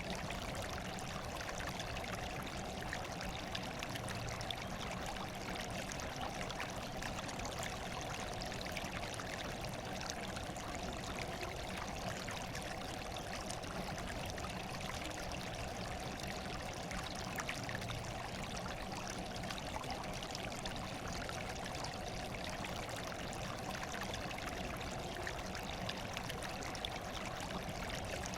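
Running water flowing steadily, an even, unbroken rush and trickle with no pauses or separate splashes.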